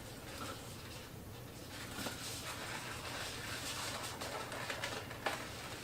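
Latex twisty balloons squeaking and rubbing as they are twisted together by hand, with a few sharper squeaks.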